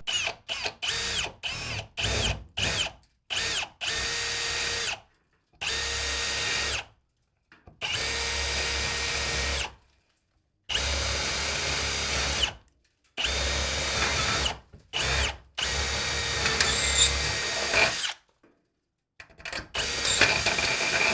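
Milwaukee cordless drill run in bursts: a quick string of short trigger pulses, then several longer runs of one to two seconds each with pauses between, the motor whining at a steady pitch.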